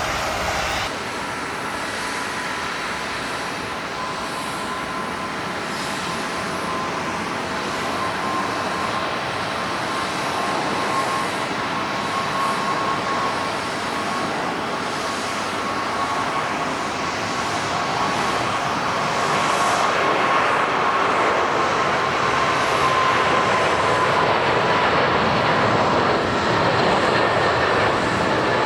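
Jet airliner's engines heard from the ground: a steady noise with high whining tones that drift slowly down in pitch, growing louder about two-thirds of the way through.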